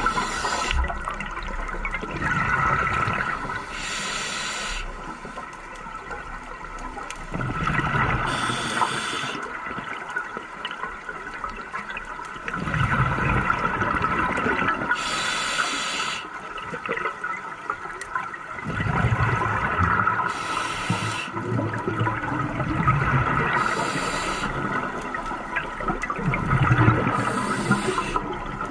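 Scuba diver breathing underwater through a regulator: exhaled bubbles burst out in a hissing, gurgling rush every four to five seconds, between lower rushes of inhalation.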